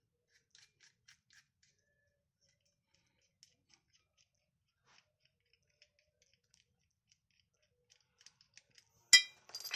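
Faint, scattered metallic clicks and ticks of hand tools working a bolt out of a rear suspension arm. About nine seconds in comes one much louder sharp metallic clank with a brief ringing.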